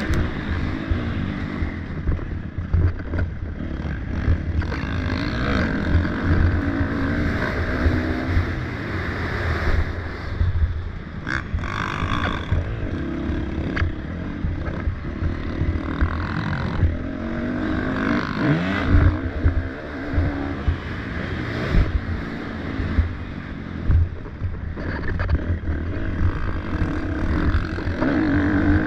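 Several motocross dirt bikes racing, their engines revving up and falling off over and over as the riders work the track, several engine notes at once.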